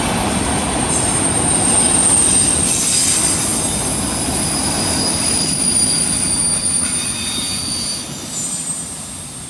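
Autorack freight cars rolling past on a curve: a steady rumble of steel wheels on rail with several high, steady wheel squeals over it. The squeal stops and the rumble begins to fade near the end as the last car goes by.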